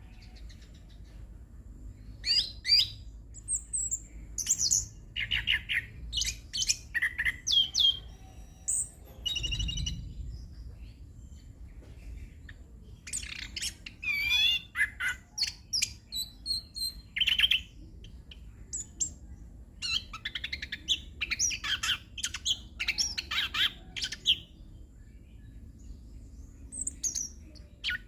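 Chestnut-capped thrush (anis kembang) singing its rolling song of rapid, varied whistles, trills and chirps, delivered in bursts of several seconds with short pauses between them, over a faint steady low hum.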